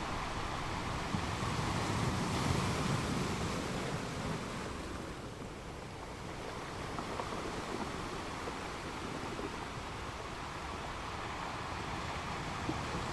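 Ocean surf: waves washing in as a steady rush, swelling about two to three seconds in and easing off a few seconds later.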